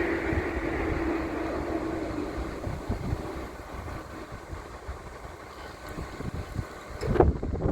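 A heavy vehicle running, loud at first with a steady hum that fades away over the first two to three seconds, then quieter rumbling with scattered knocks and one sharp clank about seven seconds in.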